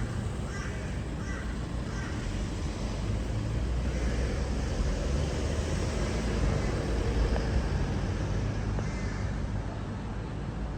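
A low rumble that builds through the middle and eases off again, with a few bird calls near the start and again about nine seconds in.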